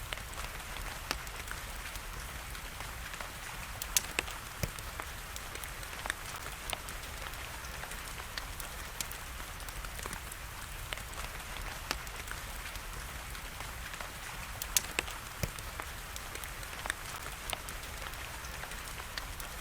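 Steady rain hiss with a wood fire crackling over it: scattered sharp pops, the loudest about four seconds in and again near fifteen seconds.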